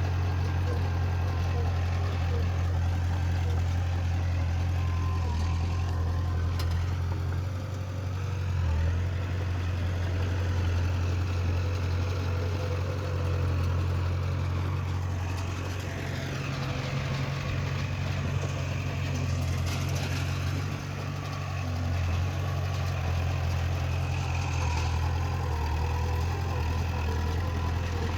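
Heavy earthmoving machine's diesel engine running steadily: a deep, continuous drone with small shifts in pitch along the way.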